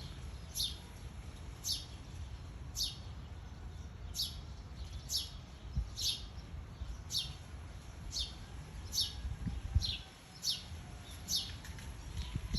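Small songbird chirping over and over: short, high notes that slide downward, about one or two a second.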